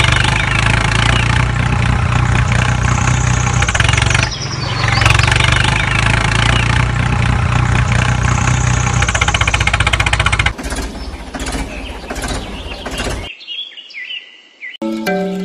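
Tractor engine running steadily, a repeating sound effect that cuts off about two-thirds of the way through. A few clicks and short high chirps follow, and light tuned music notes begin near the end.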